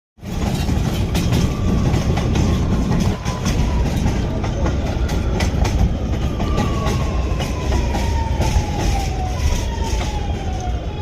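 Subway train running on the rails: a loud low rumble with repeated clicks of the wheels over rail joints. In the second half a whine near the middle of the range glides downward several times.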